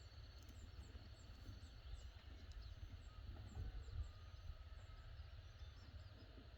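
Faint outdoor ambience: a low rumble of wind on the microphone, with a string of small, high chirps repeating irregularly throughout.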